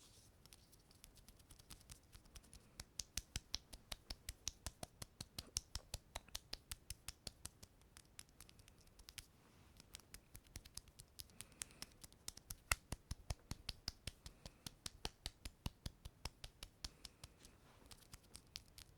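Fingertips tapping and pulling off a sticky surface, each lift making a crisp sticky click, about four a second in two long runs with a short pause between them.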